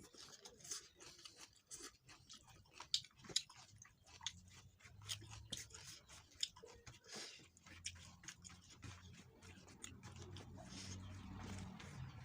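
A person chewing food close to the microphone: faint, irregular wet mouth clicks and crunches.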